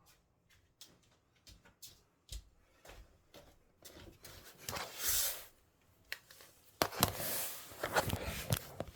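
Household noise from elsewhere in the building, heard through the walls: a run of light knocks and clicks, then two longer rushing, scraping noises about four seconds in and again about seven seconds in. The kind of neighbour noise recorded as a complaint about noise at bedtime.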